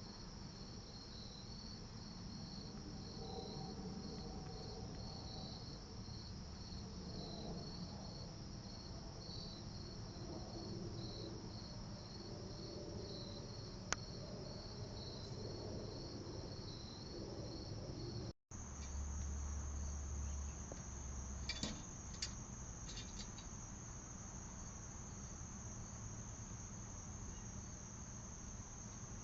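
Crickets chirping: a steady high-pitched trill, with a second, pulsing chirp in the first part. The sound cuts out for a moment about 18 seconds in and resumes as a continuous high trill.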